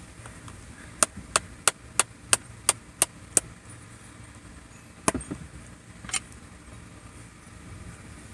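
A can of dipping tobacco being packed: a run of sharp, even taps on the lid, about three a second, then a duller knock and a single click about a second later.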